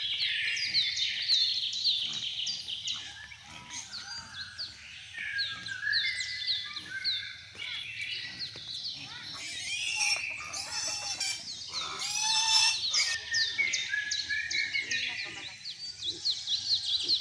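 Birds chirping in quick, repeated short notes, many overlapping, with a louder, fuller burst of calls about twelve seconds in.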